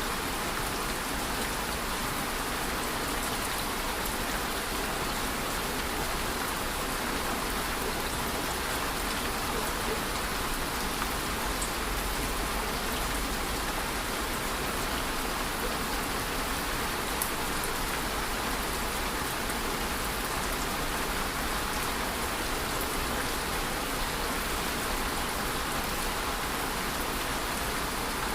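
Steady rain falling and pattering on a surface, an even hiss with a few faint individual drop ticks.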